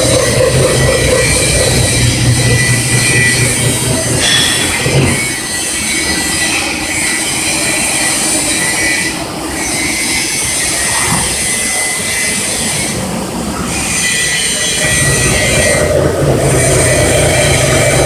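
CNC milling machine cutting cast iron, a pillow block bearing housing: a steady high metallic cutting squeal over a low machine hum. The low hum drops away from about five seconds in and returns near the end, and the squeal briefly breaks a few times.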